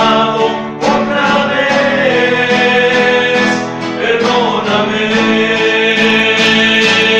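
A men's rondalla performing a hymn: male voices singing over strummed acoustic guitars, with a sliding sung note about four seconds in.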